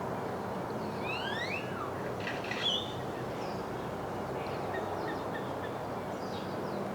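Small birds chirping and calling: a few quick rising whistled sweeps, then a cluster of sharp chirps, then fainter scattered chirps, over a steady low background rumble.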